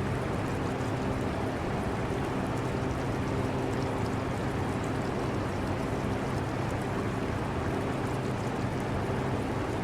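Air conditioner running steadily: a low hum with a few steady tones over an even whoosh of air, mixed with the trickle and bubbling of aquarium water.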